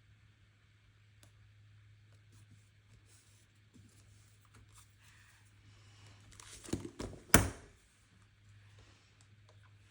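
Stationery being handled at a desk: faint paper rustling over a faint steady hum, then a quick cluster of sharp clicks and knocks about two-thirds of the way in, the last one a loud snap.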